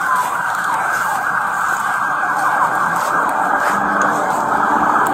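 Several emergency-vehicle sirens wailing at once, their rising and falling sweeps overlapping.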